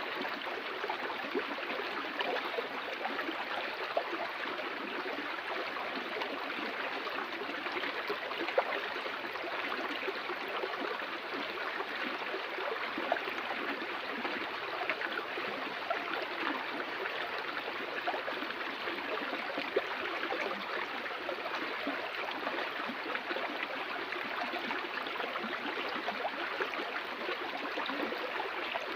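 Flowing water: a steady, even rush of running water, with scattered brief louder spikes.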